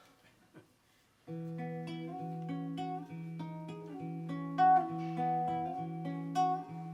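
Acoustic guitar playing a song's intro: after about a second of near silence, a steady picked pattern of notes over a held bass note.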